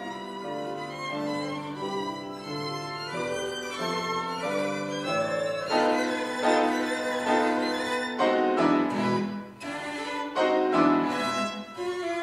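Piano trio of violin, cello and piano playing classical chamber music, the violin carrying the line; the playing grows louder about halfway through.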